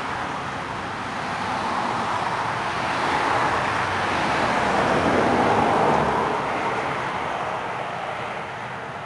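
A vehicle passing by: steady road and tyre noise that swells to a peak about five seconds in and then fades away.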